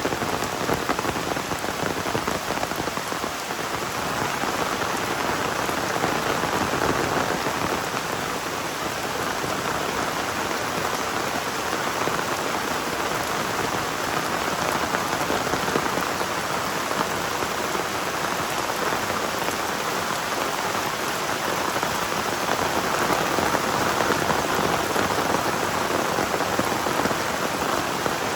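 Heavy rain falling steadily as an even hiss, swelling slightly a couple of times.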